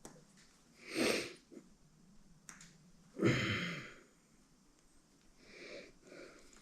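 A man breathing out hard twice while straining, about a second in and again about three seconds in, with a small click between them and softer breaths near the end.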